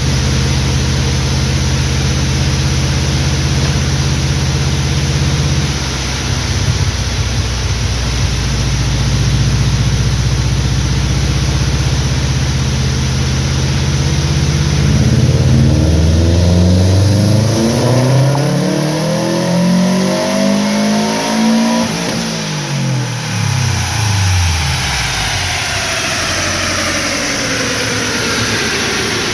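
2005 Subaru Impreza WRX STi's turbocharged 2.5-litre flat-four engine on a chassis dyno, running at steady low revs, then pulling hard with its pitch climbing for several seconds to a peak and winding back down as it coasts off: a dyno power run.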